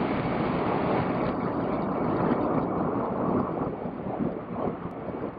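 Shinkansen running noise heard from inside the car: a steady, loud rushing rumble that gets noticeably quieter about three and a half seconds in.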